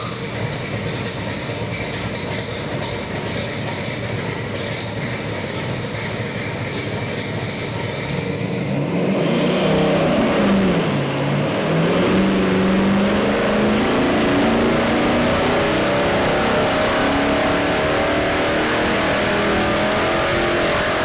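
540 cubic inch big-block Chevy stroker V8 with a hydraulic roller cam, just started and idling, then revved up about nine seconds in. It dips briefly and then runs at a higher, steady speed with its pitch creeping slowly up.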